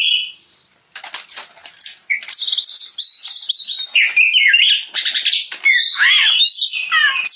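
Oriental magpie-robin (kacer) singing loudly. A short call is followed by a brief pause and a few rasping notes, and then from about two seconds in comes a continuous run of varied whistles and harsh chattering notes.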